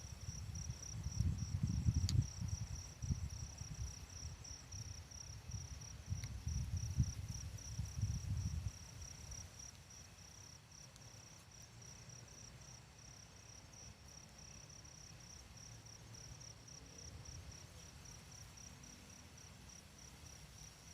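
Insects, likely crickets, chirping in a steady, rapid pulsed trill. Low rustling and bumping for the first nine seconds or so, which then stops.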